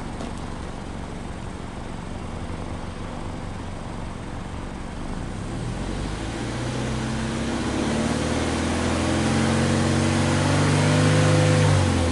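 Subaru BRZ's 2.0-litre flat-four boxer engine, heard at the twin exhaust tailpipes, idling and then free-revved with the car standing still. From about halfway through, the pitch climbs slowly and grows louder, holds high for a few seconds, then begins to fall right at the end.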